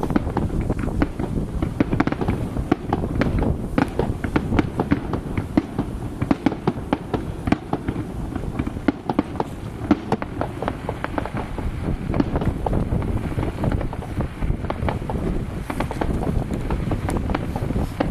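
Fireworks display: a dense, continuous run of sharp bangs and crackles, several a second, over a low rumbling background.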